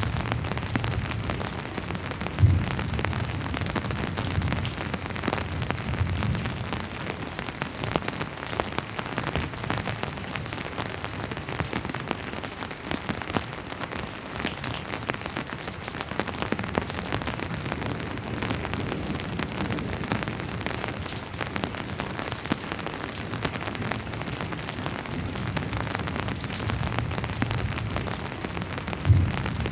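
Steady rain pattering on surfaces, dense with individual drop hits, under a low rumble that comes and goes. Two short, low thumps stand out, about two and a half seconds in and near the end.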